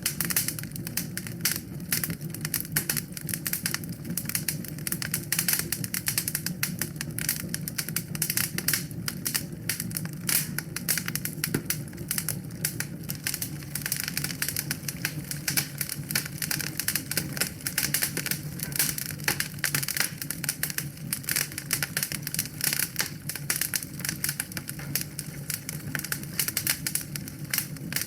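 Wood fire crackling in a fireplace: a dense, irregular stream of small pops and snaps over a steady low rumble of the flames.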